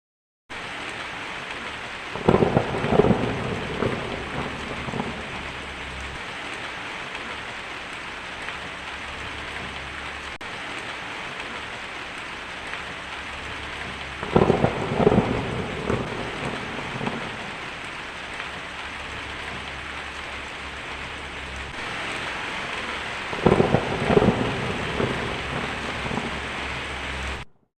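Steady heavy rain pouring, with three thunderclaps that each rumble on and fade over a few seconds: one about two seconds in, one midway and one near the end. The rain starts and stops abruptly.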